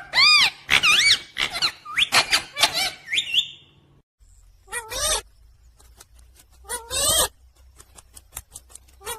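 Pet parrot chirping and squawking: a quick run of shrill calls that bend up and down in pitch for about three and a half seconds, then a pause and single calls about every two seconds.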